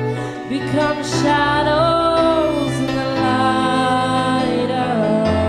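Slow worship song: a woman's voice sings a long, gliding melody line over sustained instrument chords, with a deep bass note entering near the end.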